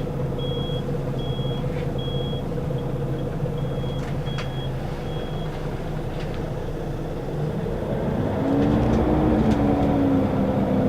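Scania L94UB city bus's diesel engine idling, heard from inside the bus, while a high electronic warning beep sounds about seven times in the first five seconds. About eight seconds in the engine grows louder and its pitch rises and eases as the bus pulls away through its ZF automatic gearbox.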